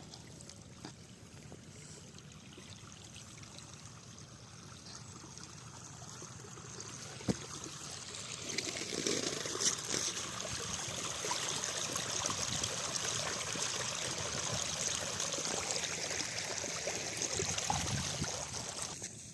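Irrigation water from a pump pouring and trickling, growing louder about eight seconds in, with a single sharp knock just before.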